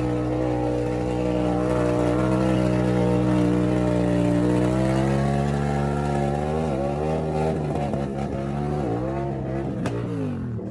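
Motorcycle engine running at a steady, held pitch, then from about six seconds in its pitch drops and climbs back several times.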